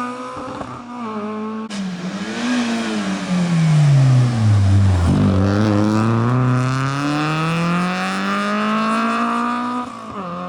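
Rally car engine running hard. Its revs fall to a low point about halfway through as the car slows, then rise steadily and long as it accelerates away, with the loudest part around the slowdown.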